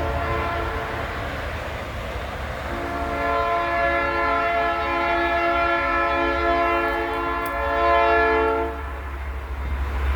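A multi-note air horn, several notes sounding together, held for about six seconds starting about three seconds in, over a steady low rumble; a fainter horn is sounding at the very start.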